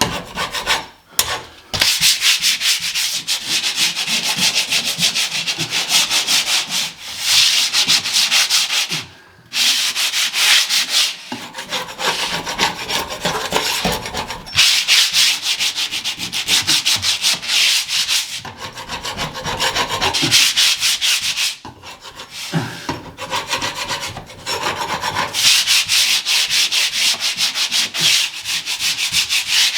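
Sandpaper scratching back and forth in rapid strokes across a painted ceiling, knocking flaky, blistered paint back to a hard edge, with a short pause about nine seconds in.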